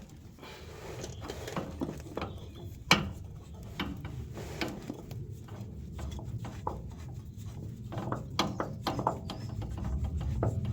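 Irregular metal clinks and knocks of hand tools and nuts as a fuel tank is fitted loosely back onto an old stationary engine, over a low rumble that grows louder near the end.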